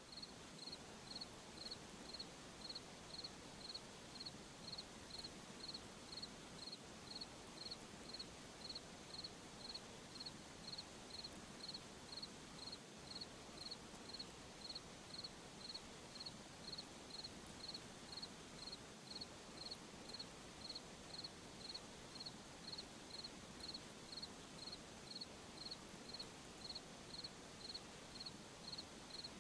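A cricket chirping steadily, about three high chirps every two seconds, over a faint hiss.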